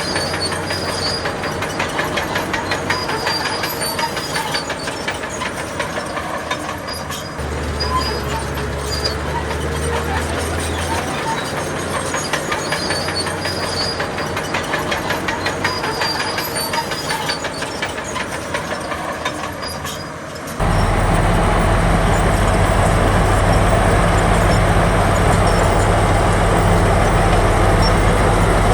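Heavy diesel engine of a bulldozer running, with a fast metallic clatter from its steel tracks. About two-thirds of the way through, the sound changes abruptly to a louder, steadier engine sound with no clatter.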